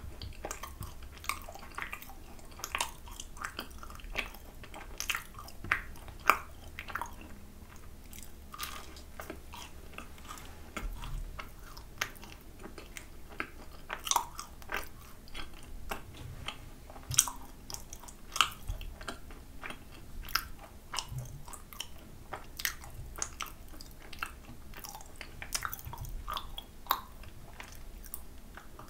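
A person chewing a dark chocolate macaron with a crisp shell and moist, dense chocolate filling: wet mouth sounds with many irregular small clicks and crunches.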